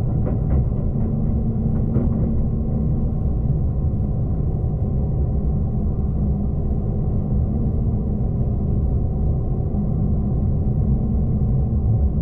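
V/Line passenger train running at speed, heard from inside the carriage as a steady low rumble, with a few light clicks in the first couple of seconds.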